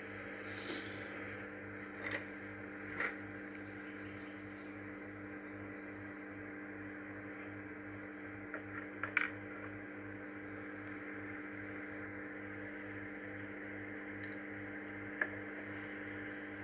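Microwave oven running at full power, a steady hum with a pulsing low throb, broken by a few faint, brief clicks.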